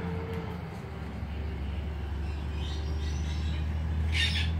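A steady low rumble, with faint high chirps about midway and one short, sharp, high-pitched bird call near the end.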